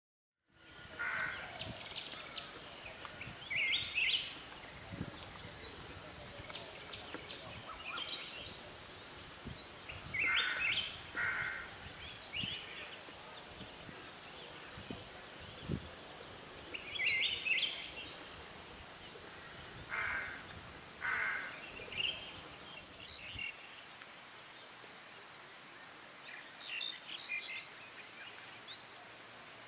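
Birds calling in woodland: short chirps and harsh call notes in small clusters every few seconds, over a steady background hiss.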